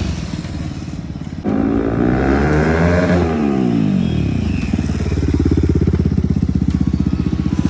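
Bajaj Pulsar NS200's single-cylinder engine running through a newly fitted Akrapovic exhaust. It is revved once about a second and a half in, rising and falling over about two seconds, then settles back to idle with a loud, even exhaust beat.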